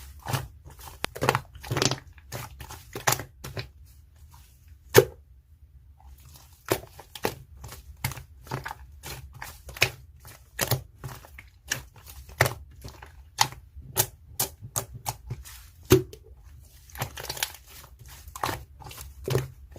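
Irregular crunching and crackling: a string of sharp clicks and crackles, several a second, with short gaps, the sharpest about five seconds in and again near sixteen seconds.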